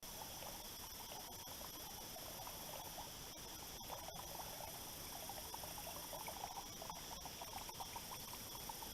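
Faint, irregular trickling and lapping of water, with a steady high hiss behind it.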